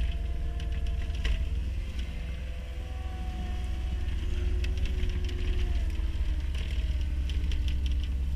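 Cat skid loader's diesel engine running steadily under load, with a whine that bends up and down in pitch and scattered clicks and knocks. The engine has a bad injector and is short of full power.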